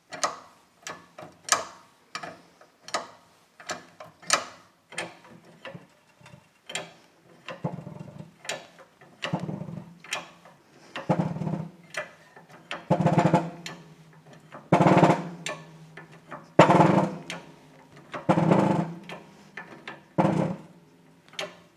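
Shop press pushing a ball bearing's inner race onto an electric motor rotor shaft through a pipe driver. First comes a run of sharp metallic knocks. Then come about six longer, louder strokes with a low pitched ring as the bearing is driven home.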